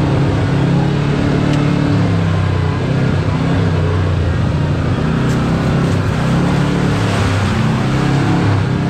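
Kawasaki Teryx KRX4 1000 side-by-side's parallel-twin engine running steadily under way on a rocky trail, its pitch wavering slightly, with tyre and trail noise and a few faint knocks.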